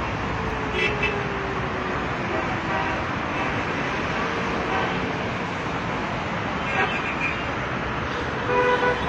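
Steady road traffic noise with several short car horn toots scattered through it.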